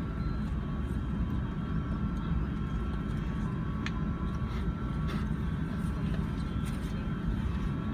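Jet airliner engines running steadily: a constant low rumble with a thin, steady whine above it.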